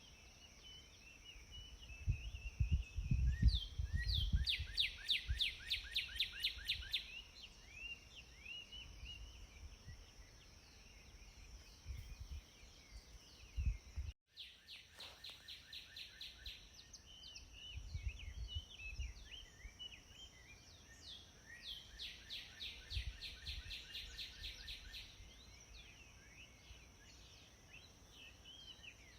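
Several songbirds singing and chirping, with a fast trill of repeated notes twice, over a steady high hiss and some low gusty rumbles. The sound cuts out for a moment about halfway.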